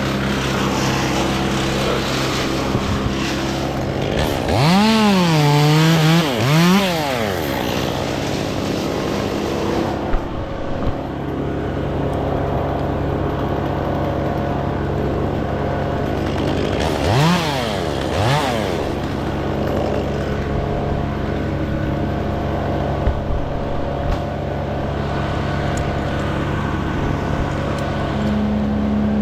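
Chainsaw engine revving up and back down twice, about five seconds in and again around seventeen seconds, over a steady engine running throughout.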